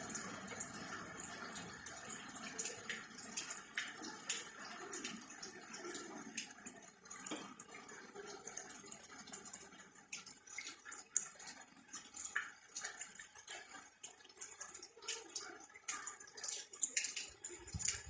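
Rain falling in irregular drips, a scatter of sharp ticks over a faint wash of water.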